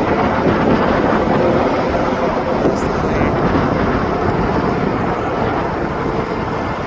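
Steady noise of vehicles going by on the bridge, mixed with wind on the microphone.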